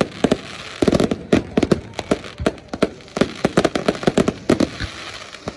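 Fireworks going off in rapid, irregular volleys of sharp bangs and cracks, densest about a second in and again in the second half.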